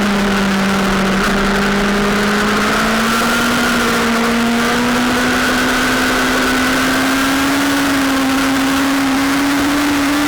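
Sportbike engine running hard and steady at speed, its pitch climbing slowly as it pulls, over a steady rush of noise.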